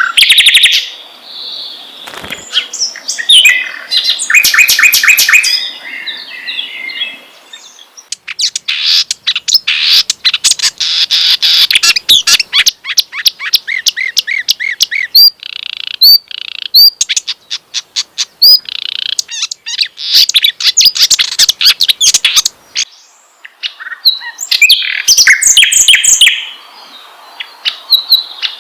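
Recorded songbird song of the kerak basi (reed warbler) and sikatan londo flycatcher: loud, varied chattering phrases and fast trills, with a run of repeated rising whistled notes around the middle and brief pauses between phrases.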